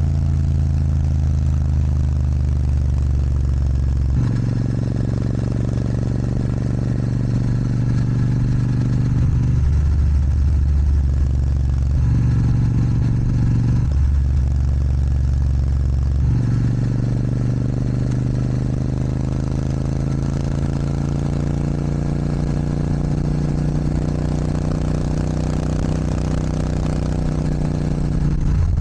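Royal Enfield Super Meteor 650's parallel-twin engine running through a Rhino Racing sports exhaust while riding. The engine note changes step-wise several times in the first half as throttle and gears change, then rises steadily in pitch through the second half as the bike accelerates.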